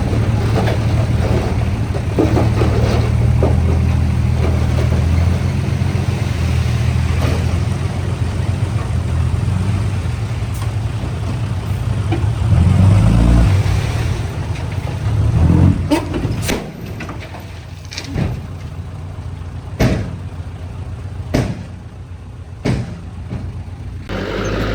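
Heavy-equipment diesel engine running steadily, swelling twice in the middle. It then drops to a lower level, broken by about five sharp knocks or clanks.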